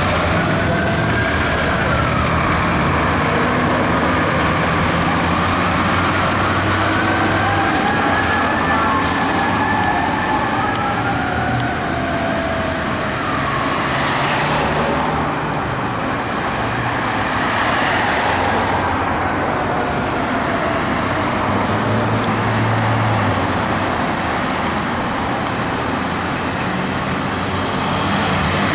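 Several fire apparatus sirens wailing at once, their slow rising and falling tones overlapping, over the low rumble of heavy truck engines and traffic.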